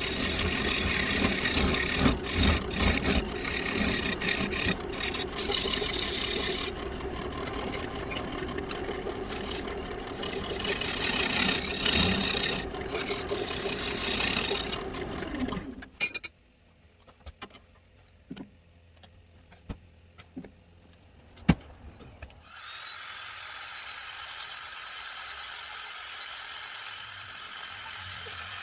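Walnut blank being worked on a running wood lathe: a steady motor hum under rough rubbing and scraping against the spinning wood. About halfway through the lathe stops, leaving a few scattered clicks and knocks, then a steady hiss comes in.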